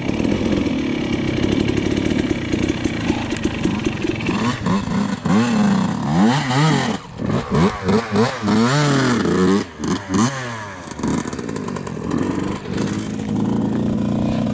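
Dirt bike engine running, then revved up and down again and again from about four seconds in, its pitch rising and falling in quick sweeps while working over obstacles, before settling back to a steadier run near the end.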